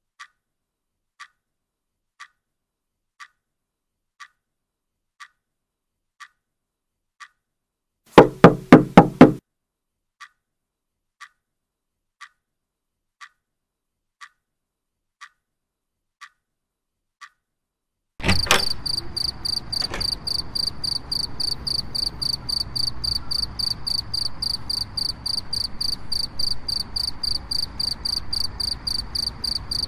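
Foley soundtrack: a clock ticking about once a second, broken about eight seconds in by a loud burst of about six rapid knocks. From about eighteen seconds on, crickets chirp steadily over a low background rumble.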